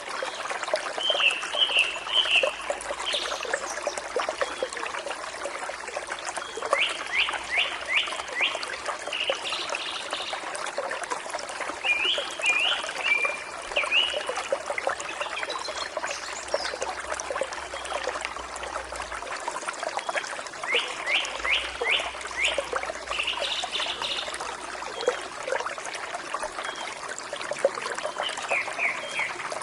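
A forest stream flowing and trickling steadily, with small birds singing short phrases every few seconds over it, some of them quick runs of four or five repeated notes.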